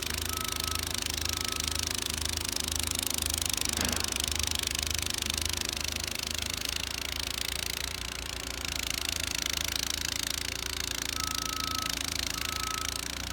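Honda HS80 snowblower's single-cylinder engine running steadily while throwing snow, with a steady hiss over the engine. A short high beep repeats several times in the first second or so and again near the end.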